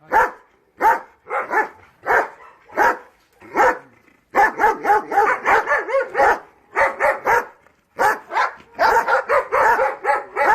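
German Shepherd dog barking repeatedly, loud, short barks spaced out at first and then coming in a rapid, nearly continuous run from about four seconds in.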